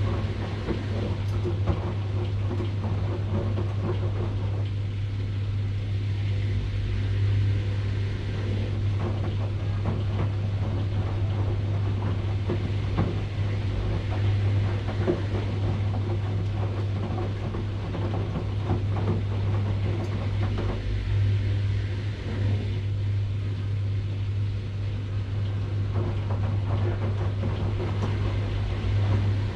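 Washing machine running: a steady low hum under a constant rough, noisy wash of sound.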